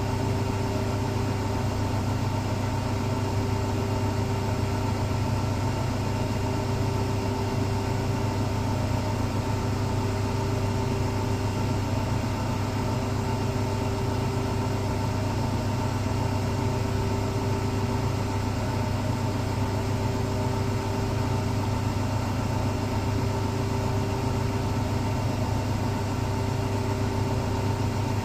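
Commercial Electrolux Professional laundry machine running, with a steady low hum and a constant whine.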